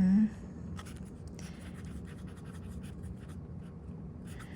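A fountain pen with a medium nib writing on paper: a long run of short, light scratchy strokes.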